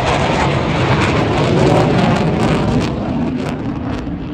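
Eurofighter Typhoon's twin EJ200 jet engines passing at full power: a loud rushing jet noise that eases off after about three seconds, with sharp crackling near the end.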